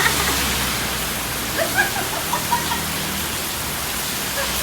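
Heavy rain falling, a steady even hiss, with a few faint short sounds about two seconds in.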